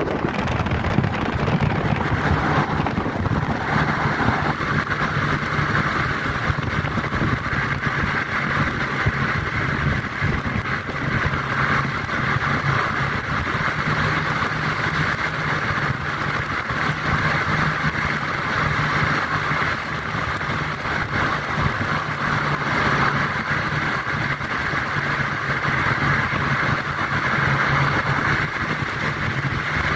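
A car driving at steady speed: continuous engine and road noise with no breaks.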